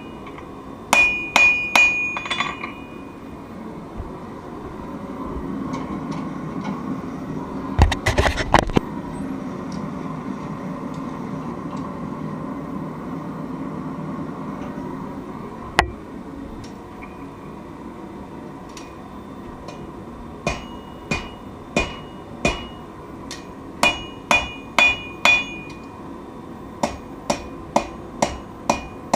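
Hammer blows on steel over an anvil, each strike ringing sharply: a short run of strikes at the start, then after a long pause filled by a steady low rushing noise and a brief clatter about eight seconds in, repeated strikes in quick groups through the last third.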